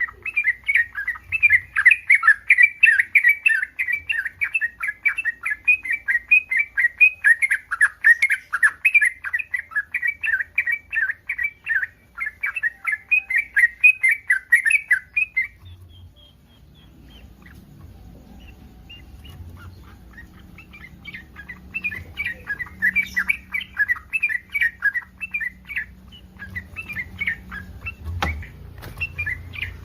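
Yellow-vented bulbul (trucukan) in breeding condition, calling in a rapid chatter of about three notes a second. The calls break off about halfway through and return more softly a few seconds later.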